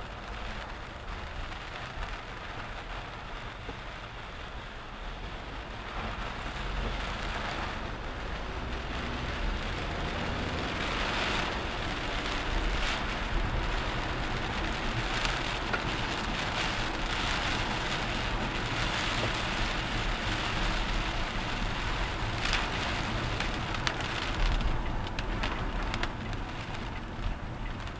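A car driving in rain, heard from inside the cabin: an even hiss of rain and tyres on wet road over a low engine and road rumble. It grows louder from about six seconds in, with a few brief swells of hiss.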